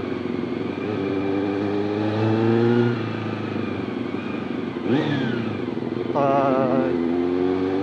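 Honda CBR400RR inline-four motorcycle engine running under way and loud, its pitch climbing steadily for about three seconds as it accelerates, dropping sharply at a shift or throttle-off, then swelling briefly again about five seconds in.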